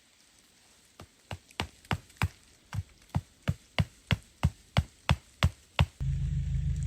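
A quick run of sharp knocks, about three a second and growing louder, like repeated strikes on wood. About six seconds in they stop and a loud, steady, low rumble cuts in suddenly.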